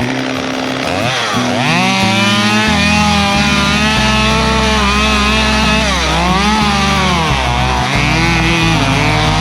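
Chainsaw revving up and down again and again as it cuts through the rotting wooden frame of an outdoor lounge, with background music under it.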